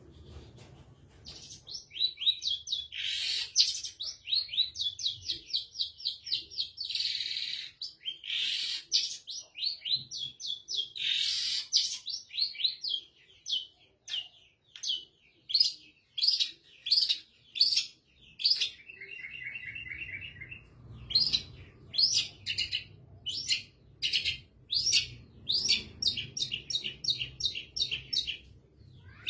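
Long-tailed shrike (cendet) singing vigorously in long phrases of sharp, high repeated notes, with dense rapid flurries at first and later separate notes about two a second. A lower, quick chattering passage comes about two-thirds of the way through.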